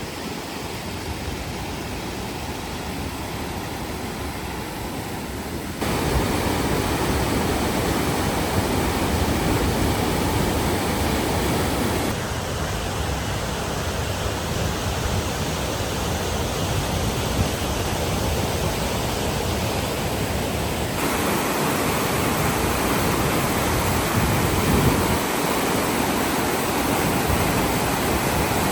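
Rushing river water, a steady noise that jumps in level abruptly three times, about a fifth of the way in, near the middle, and about three-quarters through.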